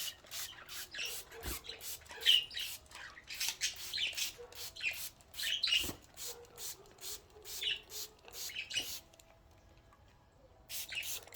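Pet budgerigars chirping and chattering in quick, short, high calls, several a second, with a brief pause near the end.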